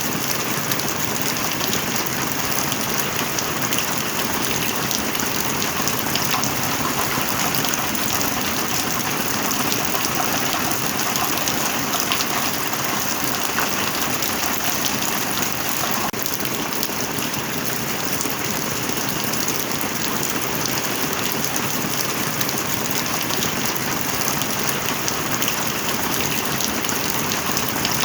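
Steady rain falling, a dense even hiss of many drops with no thunder.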